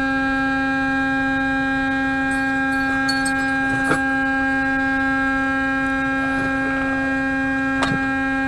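Semi-truck air horn held in one long, unbroken blast at a steady pitch, with a couple of faint clicks beneath it.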